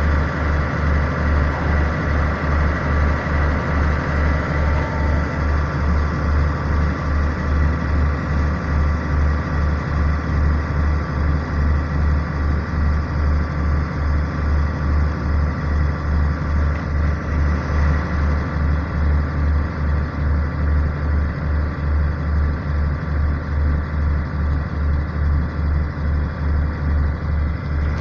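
A train's diesel engine idling steadily, with an even low throb about twice a second.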